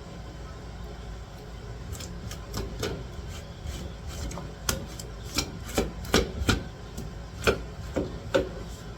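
Knife working on a cutting board: a run of irregular taps and scrapes, getting sharper and louder in the second half.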